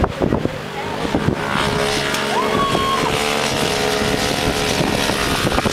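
Several mini dirt bike engines running; about two seconds in one revs up sharply and holds at high revs.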